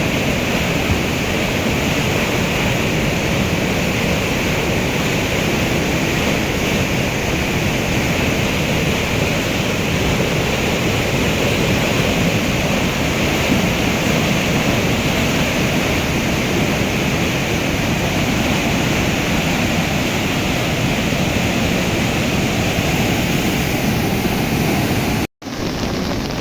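Floodwater of a swollen mountain river rushing in a steady, loud, unbroken torrent. The sound cuts out for a moment near the end.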